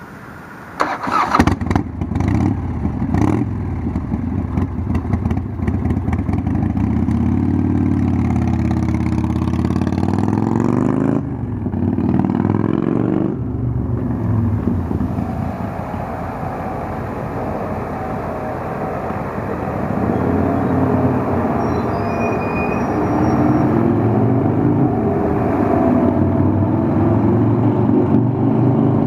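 Harley-Davidson Evolution V-twin of a 1992 FXDB motorcycle starting about a second in, then running and pulling away. The pitch rises several times as it accelerates, breaking off sharply at gear changes.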